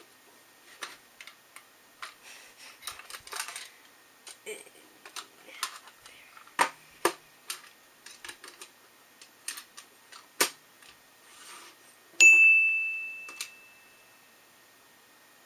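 Irregular small clicks and taps from handling the parts of an Intel NUC mini PC while its RAM and storage are removed. About twelve seconds in there is one sharp metallic ring, a small metal part struck or dropped on a hard surface, which dies away over about two seconds.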